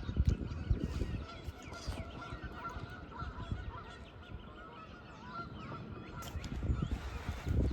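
A flock of geese honking, many short calls overlapping, with a low rumble on the microphone near the start and again near the end.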